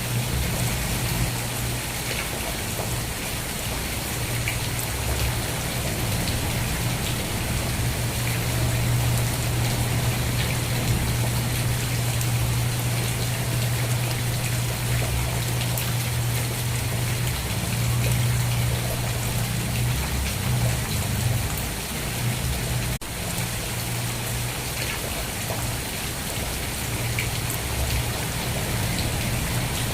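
Steady rain, with scattered individual drops ticking on a surface over an even hiss, and a steady low rumble underneath.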